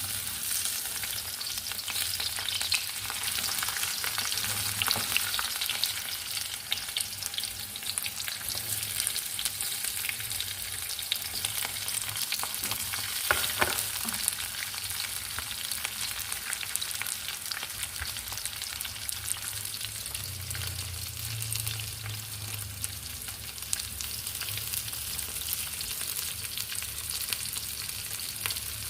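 Food frying in hot oil in a pan, a steady crackling sizzle, with a spatula stirring and now and then clicking against the pan.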